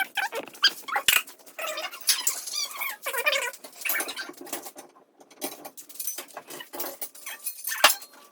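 A dog whining, with repeated high, wavering whimpers, along with scattered short clicks and light knocks.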